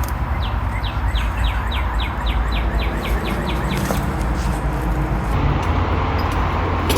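A bird singing a quick run of about a dozen short chirps that fall in pitch, about four a second, stopping near the middle, over a steady low rumble.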